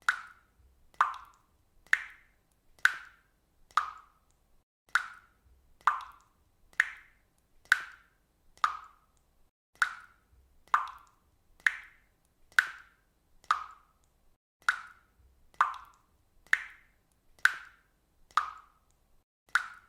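Water dripping at a steady pace, one drop about every second, each a short sharp drip with near silence between.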